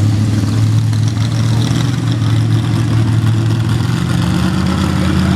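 Tractor engine running steadily at a tractor pull, a loud low drone that edges slightly up in pitch past the middle.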